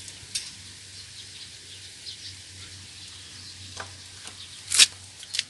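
Faint steady background hiss broken by a few sharp clicks and taps, the loudest near the end. These are most likely from handling the engine's dipstick and parts.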